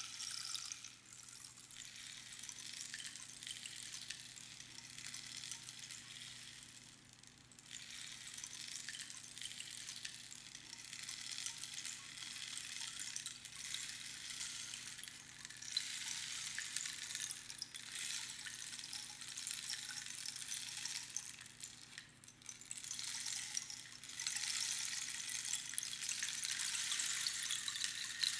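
Rainstick being tilted back and forth: a dry, rain-like rushing patter of its fill cascading along the inside of the tube. It swells and fades in waves several seconds long, with short lulls between cascades.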